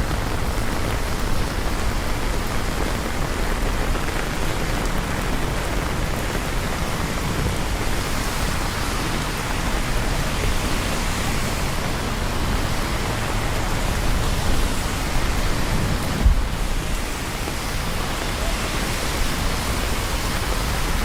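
Steady rain falling, an even hiss with no pauses. A single brief low thump about three quarters of the way through.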